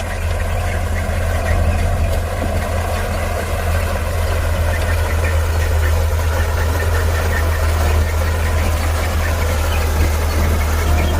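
Heavy diesel engine of earthmoving equipment running steadily, a deep low hum with a clattering mechanical texture above it.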